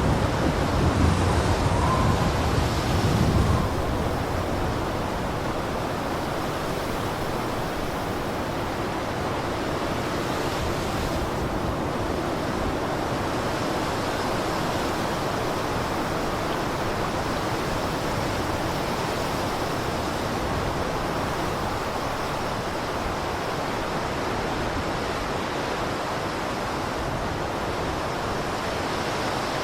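Blizzard wind blowing as a steady rush, with a louder, deeper gust in the first three or four seconds before it settles.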